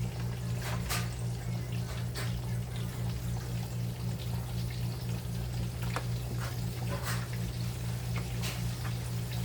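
Floured chicken pieces frying in hot oil: a steady sizzle with scattered crackles and pops. A steady low hum runs underneath.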